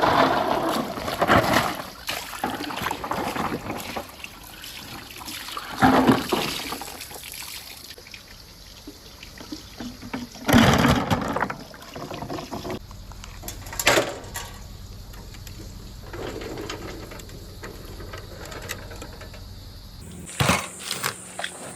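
Balls rolling along a marble-run track, a continuous rushing roll with several louder surges and clatters spaced a few seconds apart.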